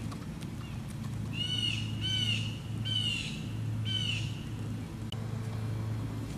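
A bird gives four short squawking calls, each arching down in pitch, about a second apart, over a low steady hum.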